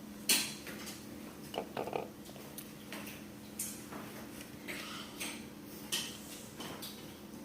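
Dishes and utensils clinking and knocking now and then as food is prepared, over a steady low hum.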